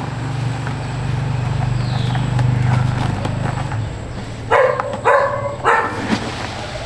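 A dog barks three times in quick succession, about half a second apart, in the second half. Under the first part runs a steady low hum.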